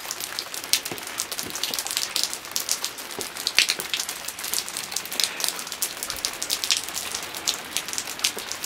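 Rain pattering on wet wooden decking: a steady hiss with many irregular drop ticks.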